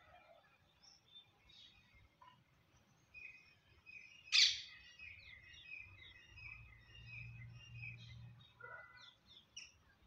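Small birds chirping over and over, short high chirps, with one loud, sharp chirp about four and a half seconds in.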